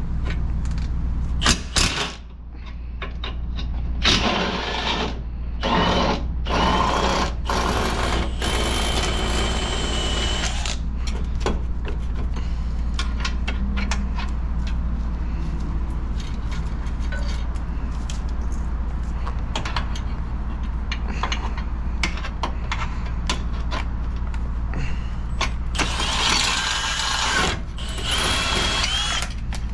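Power tool motor running in short bursts, with a whine, twice for several seconds, as the bumper reinforcement bolts are taken out, over a steady low hum with scattered clicks.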